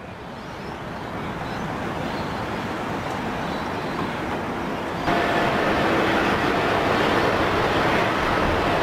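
Jet engines of an Airbus A350-900, its Rolls-Royce Trent XWB turbofans, during takeoff: a steady rushing noise that grows louder, then steps up suddenly about five seconds in, with a steady whine over the top.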